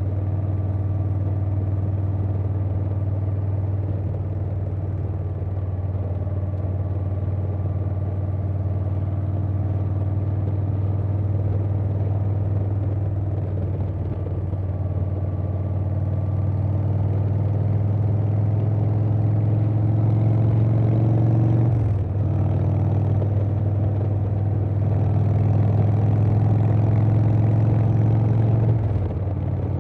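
2020 Harley-Davidson Softail Standard's Milwaukee-Eight V-twin running under way through a Vance & Hines Big Radius 2-into-2 exhaust, with wind. The engine note holds steady, climbs slowly, breaks briefly about two-thirds of the way in, and drops near the end.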